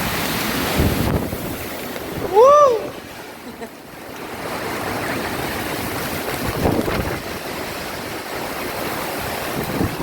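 Strong storm wind rushing and buffeting the microphone, easing for a moment about three seconds in before picking up again. At about two and a half seconds a short, loud cry whose pitch rises then falls stands out over the wind.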